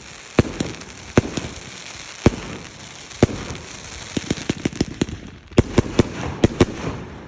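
Fireworks going off: irregular sharp bangs over a steady crackle, with a rapid flurry of pops in the second half.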